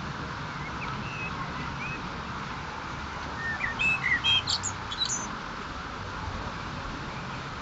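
Small bird chirping: a few faint short calls about a second in, then a quick run of louder chirps and trills around four to five seconds in, over a steady background hum.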